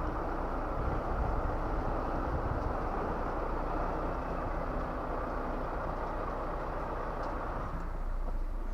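Volvo FH 460 truck's 13-litre six-cylinder diesel engine running, with road noise, heard from inside the cab while driving at a steady pace.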